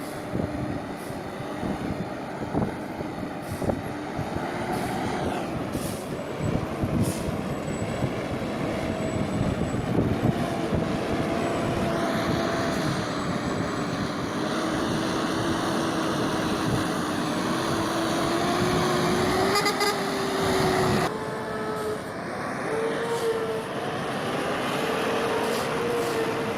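Heavy truck engines running under load, one engine note climbing slowly in pitch, then a sudden switch to another engine sound near the end.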